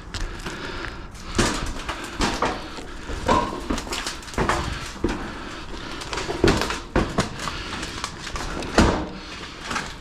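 Irregular knocks and metallic clatter of long steel roofing panels being handled and fitted where their ribs overlap, with the strongest knocks about a second and a half, four and a half, six and a half and nearly nine seconds in.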